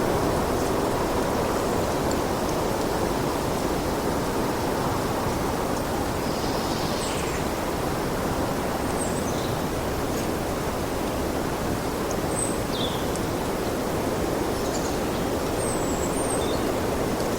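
Steady wind blowing, an even low rushing noise that holds without clear gusts. A few short, faint, high chirps are scattered through it.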